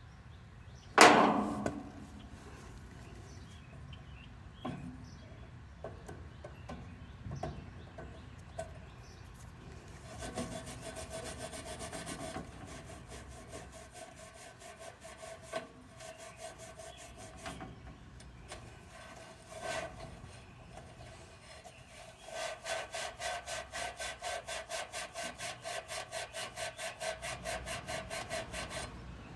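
Press tool running in two spells of fast, even pulses, about four a second over a steady hum, as it presses an RLS fitting closed; a sharp knock about a second in and scattered clicks of tool handling.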